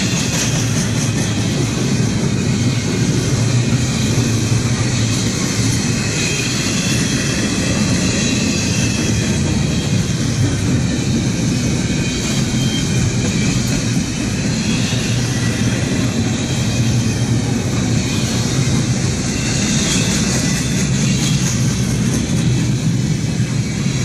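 Norfolk Southern freight train's cars rolling past on the rails: a steady, continuous rumble and rattle of wheels and rail cars.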